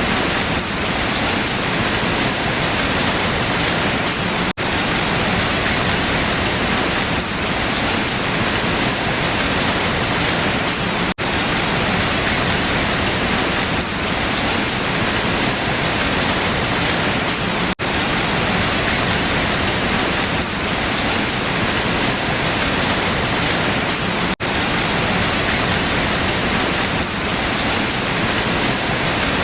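Steady, heavy rain falling on leaves, a dense even patter with no let-up. The level dips for an instant about every six and a half seconds.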